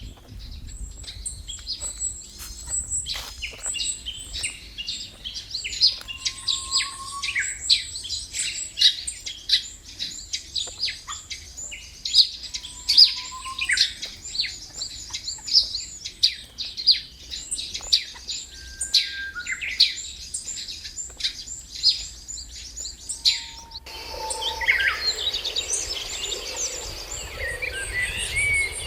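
Many birds chirping in quick, overlapping high notes, with a few short lower whistles now and then. About 24 seconds in, the sound changes to a noisier, busier chorus of calls.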